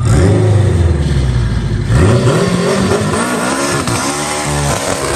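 Straight-piped, turbocharged four-cylinder engine of a widebody Dodge Neon SRT-4 revving hard, its pitch climbing and dropping several times as the front tyres spin and smoke.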